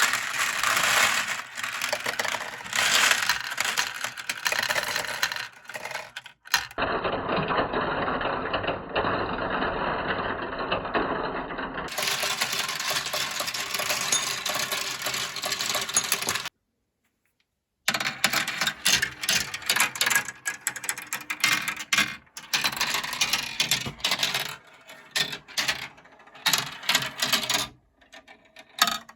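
Marbles rolling and clattering down plastic marble-run slopes: a dense, uneven stream of clicks and rattles, broken by a silent gap of about a second a little past the middle.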